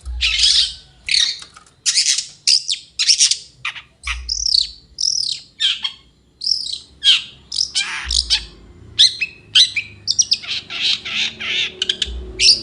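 Long-tailed shrike (cendet) singing: a fast run of harsh, scratchy chattering notes in short phrases, some sweeping downward in pitch.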